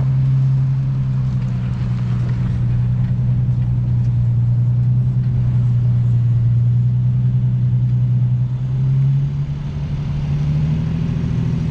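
Nissan Z's VQ V6 with an aftermarket exhaust running at low, steady revs. The engine note dips briefly about nine seconds in, then rises a little.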